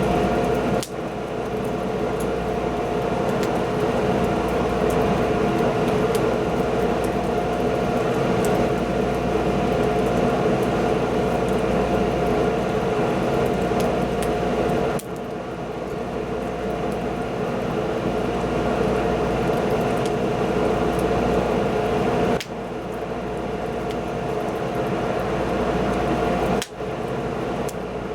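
Wood fire burning: a steady rushing noise with faint, scattered crackles. The sound drops abruptly for a moment four times.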